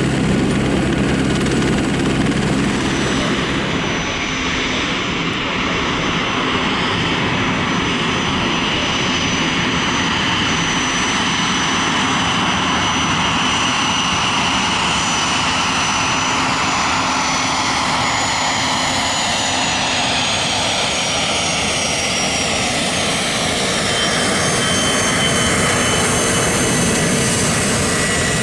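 Aircraft engines running loud and steady: a rushing roar with high whining tones. A low drone in the first few seconds fades out.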